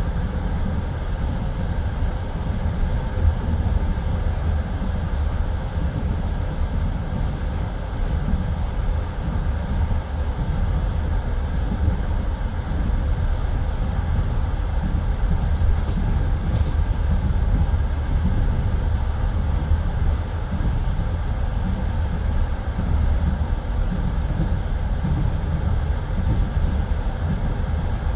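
Passenger railway carriage running at speed, heard from inside: a steady, low rumble of the wheels on the rails, with no distinct breaks or changes.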